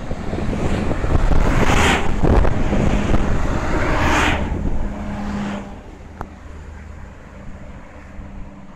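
Adelaide Metro diesel railcar passing directly underneath, with engine hum and rushing wheel noise that swells loudly twice in the first few seconds, then fades to a low rumble about six seconds in as the train pulls away from the station.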